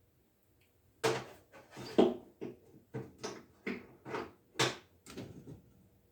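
A run of about ten sharp knocks and clunks, starting about a second in and spaced irregularly over four seconds, from tooling being handled and fitted at a lathe.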